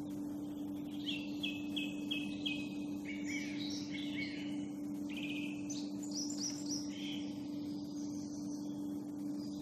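Songbirds singing in woodland: a run of four repeated notes about a second in, then varied short phrases. A steady low hum runs underneath.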